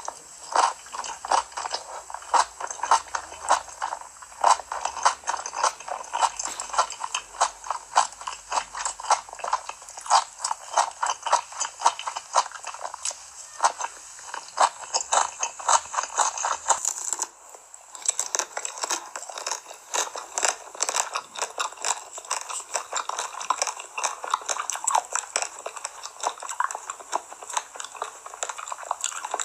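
Close-miked ASMR eating sounds: rapid wet chewing and mouth clicks from a spicy saucy dish of enoki mushrooms, eggs and eggplant. About 17 seconds in the sound changes to crisp bites and crackling crunches of chocolate-coated ice cream bars.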